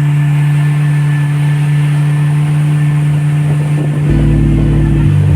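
Boat motor running at a steady pitch. About four seconds in, a heavy bass line of music comes in over it.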